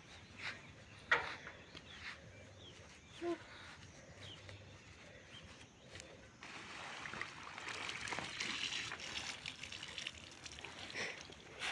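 A few light knocks, then from about halfway water trickling and splashing steadily, as clothes are rinsed and wrung out.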